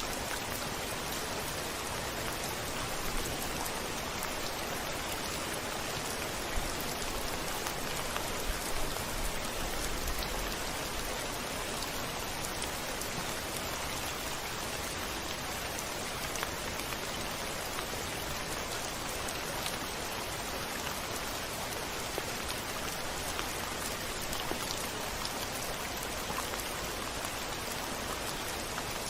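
Steady rain falling on a window, with individual drops ticking through the hiss. A faint low rumble comes in about seven seconds in and fades a few seconds later.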